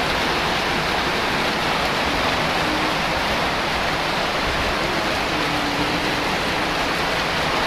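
Heavy rain pouring down, a steady dense hiss that holds at one level throughout.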